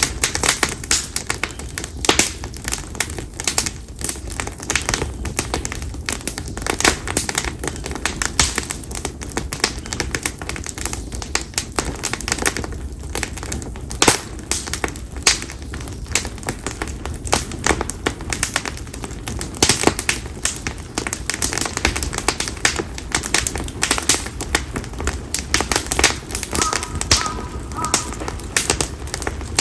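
Wood fire of split konara oak (Quercus serrata) logs burning, crackling and popping densely and irregularly over a steady low rumble.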